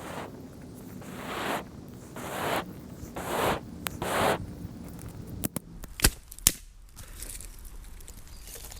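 Campfire being moved and rekindled: a series of rushing swells about a second apart, then three sharp wooden clicks past the middle.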